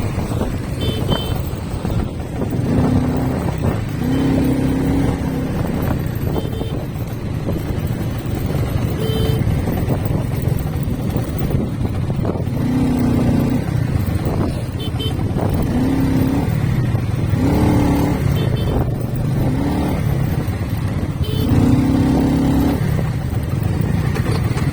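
Motorcycle riding along a road, with steady engine rumble and wind and road noise. Short, steady pitched tones sound about eight times throughout.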